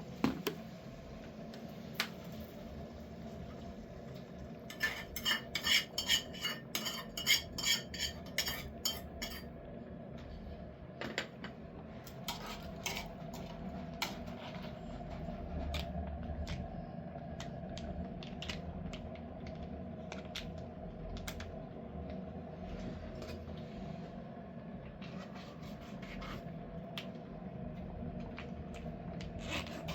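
Metal utensils clinking and scraping against pots and dishes, with a quick run of ringing clinks about five seconds in and scattered single clicks after, over a steady low background hum.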